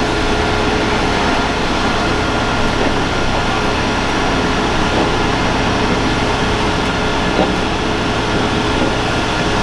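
Heavy military truck running steadily, a constant engine drone with a steady whine over it.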